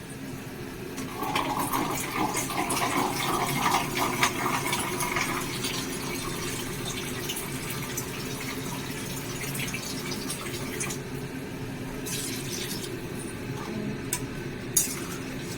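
Liquid for the gravy being poured into a cooking pan for a few seconds, about a second in. Then a steady low background noise with a few light clicks.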